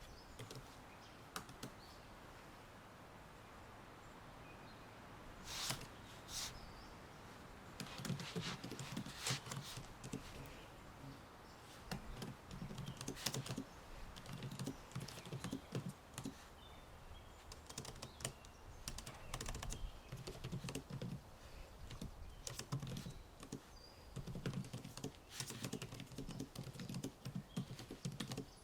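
Typing on a computer keyboard: quick irregular runs of key clicks that start about five seconds in, after a stretch of quiet room background, with short pauses between runs.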